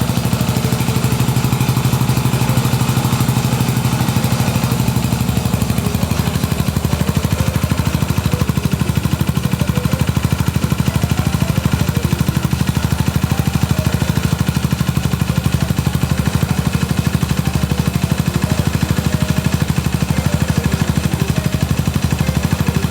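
Yamaha SR400's air-cooled single-cylinder engine idling with a steady, even exhaust beat. The low rumble eases a little about six seconds in.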